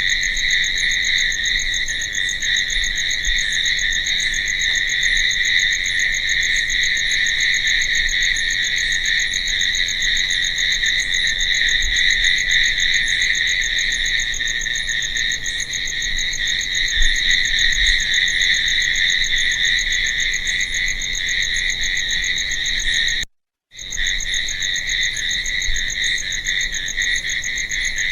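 A dense chorus of crickets trilling steadily at night. The sound cuts out completely for about half a second some 23 seconds in, then comes back unchanged.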